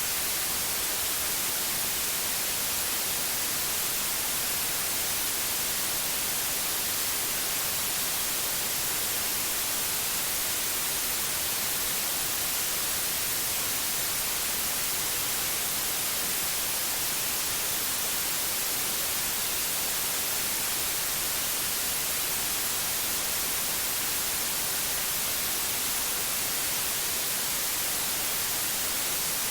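Steady white noise: an even, unbroken hiss, brightest in the high treble, with no change in level.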